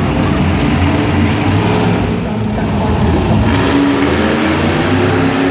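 Monster truck's supercharged V8 engine running loud, its pitch wandering up and down with the throttle.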